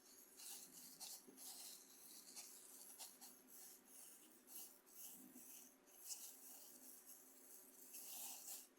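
Coarse cornmeal rubbed and scraped across a bamboo cutting board: a faint, gritty scratching that comes in short, irregular strokes.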